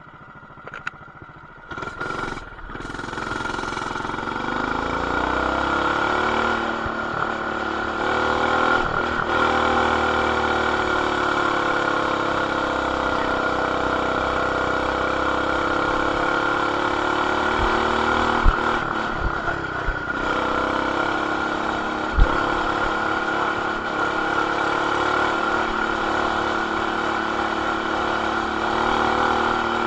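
Coleman BT200X mini bike's single-cylinder engine, with an aftermarket intake, header and RLV exhaust, revving up about two seconds in and then running steadily at high revs under riding load, with slight rises and dips. A couple of short knocks come in the later half. The sound is dulled by an action camera's plastic housing.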